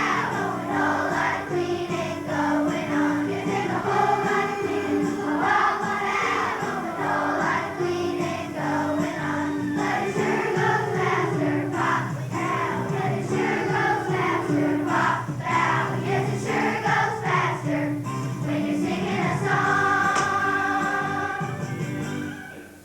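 A children's school choir singing a song with musical accompaniment; the singing ends shortly before the end.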